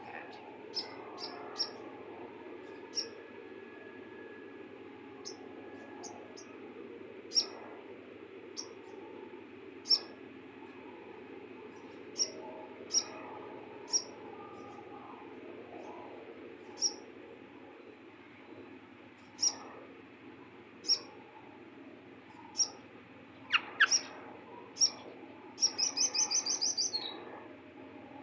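Sunbird (sogok ontong) giving short, sharp high chirps one at a time, a few seconds apart, then a quick rattling trill near the end. A steady low hiss runs underneath.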